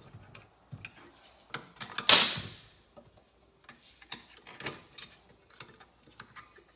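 Light metallic clicks and clinks as a motorcycle engine's kickstarter shaft and spring are worked loose by hand, with one louder, longer metal scrape about two seconds in.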